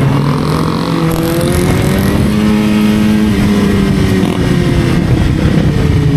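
Motorcycle engine running steadily, its pitch rising a little in the middle and then easing back down.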